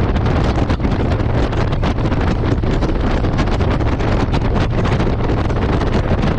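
Wind buffeting the microphone on a moving motorcycle, a loud steady rushing with constant flutter, with the motorcycle's engine running underneath.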